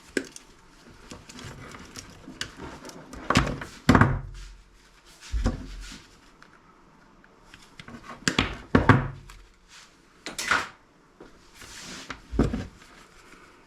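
Irregular knocks, clunks and short scrapes of a salvaged electronic part being handled and pried apart for scrap, about half a dozen separate impacts.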